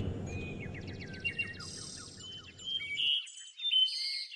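Songbirds chirping and trilling, many quick high notes in rapid series. Under them a low background hum fades and stops abruptly about three seconds in.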